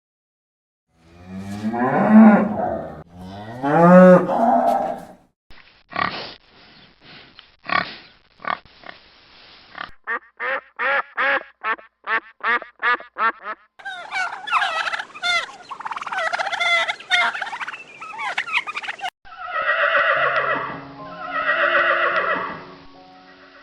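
Calls of several different farm animals, one clip after another: two long low calls near the start, then a fast run of short pulsing calls, then a stretch of higher overlapping honking calls, and two more drawn-out calls near the end.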